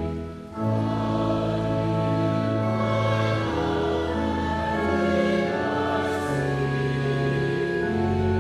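Church hymn sung together by congregation and choir, in long held chords with a short break between phrases just after the start.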